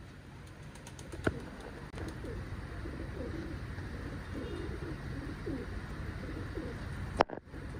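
Pigeons cooing, a run of low, repeated coos. There is a sharp click just over a second in and a louder one near the end.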